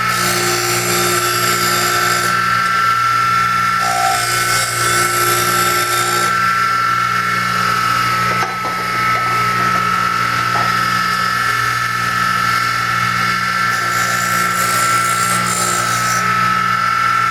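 Electric bench grinder running steadily with a constant motor whine and hum, as steel turning tools are sharpened on the wheel: three grinding passes of about two seconds each add a high hiss, near the start, about four seconds in, and about fourteen seconds in.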